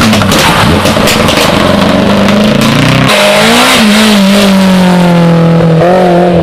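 Rally car engine at high revs, harsh and crackling at first. About three seconds in the pitch drops suddenly, as at a gear change, and the engine note then rises and falls.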